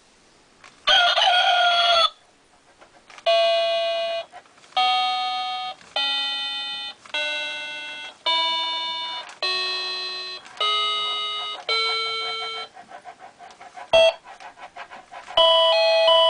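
Electronic sounds from a children's musical play mat: a recorded rooster crow about a second in, then single electronic keyboard notes played one at a time, about one a second, each fading and climbing step by step up a scale. A short tune starts near the end.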